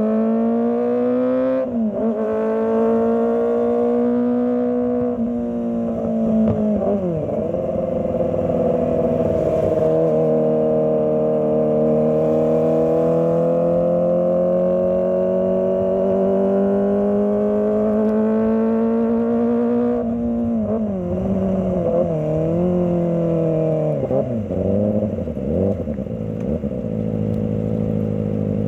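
Kawasaki ZX25R's 250 cc inline-four engine running under the rider's throttle in slow traffic. Its pitch holds and slides gently for long stretches, drops sharply about two seconds in and again around seven seconds, and goes through a series of quick throttle blips and dips in the last third.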